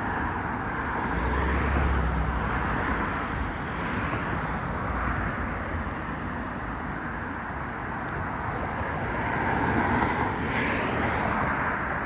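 Road traffic going by: a steady wash of car tyre and engine noise, swelling as vehicles pass about two seconds in and again near ten seconds.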